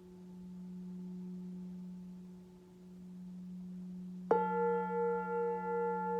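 Singing bowls: a low bowl tone holds steady, slowly swelling and fading, then about four seconds in another bowl is struck and rings on with several overtones and a slow wavering beat.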